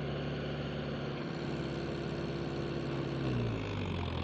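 Diesel engine revved up and held high for about three seconds, then easing back near the end.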